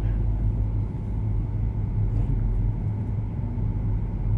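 Steady low hum and rumble, with a few faint soft ticks about two and a half seconds in.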